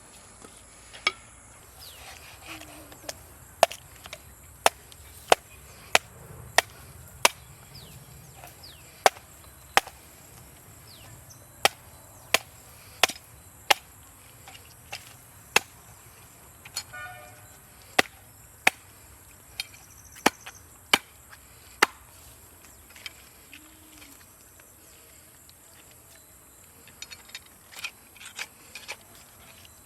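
A heavy knife chopping a koduva (sea bass) into pieces against a cutting block: sharp single chops, roughly one a second, thinning to lighter taps after about twenty seconds.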